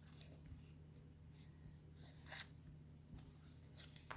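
Faint, scattered rustles of leaves and paper being handled and pressed down during gluing, over a low steady hum.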